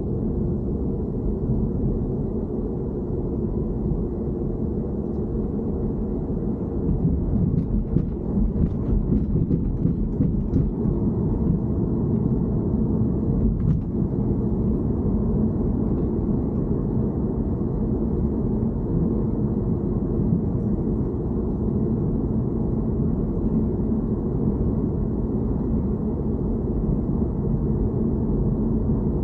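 Steady low rumble of a BMW E90 heard from inside the car, with a few faint ticks about a quarter to halfway in.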